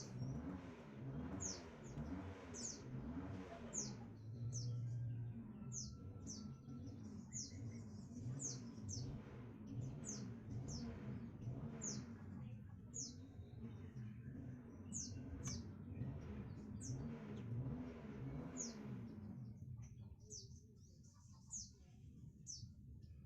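A small bird chirping: single short high chirps, each sweeping down in pitch, repeated about once or twice a second. Beneath it runs a low background noise that drops away near the end.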